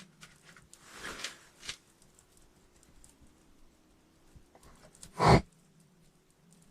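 Quiet handling noises: faint rustling in the first two seconds, then one short loud thud about five seconds in.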